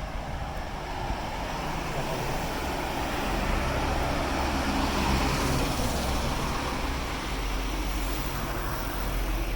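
Street traffic noise: a passing vehicle's sound swells and fades in the middle, over a steady low rumble.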